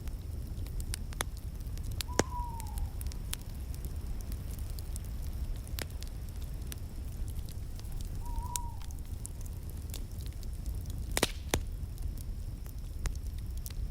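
Wood fire burning in a fireplace: a steady low rumble with scattered sharp crackles and pops, the loudest pops about two seconds in and again later. Twice a short falling whistle sounds, once with the first big pop and again past the middle.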